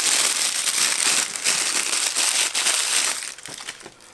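Toy packaging crinkling loudly as it is handled and unwrapped. The sound stops about three seconds in.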